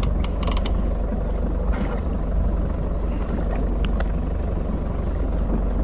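Small boat's outboard engine idling with a steady low hum, with a few short clicks and knocks on top.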